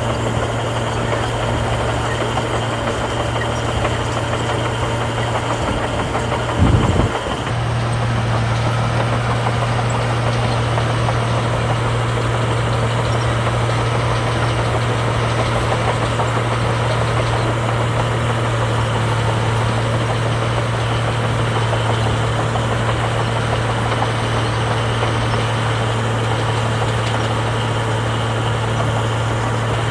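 Heavy diesel engine of earthmoving machinery running steadily with a constant low hum. A single brief, loud thump comes about seven seconds in.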